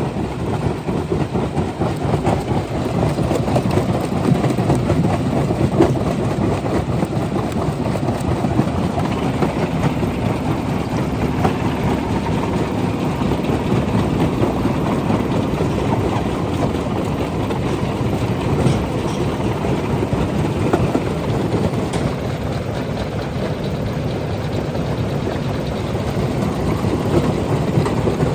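Stone crusher running: a steady, dense rumble and rattle of rock being crushed, with no break.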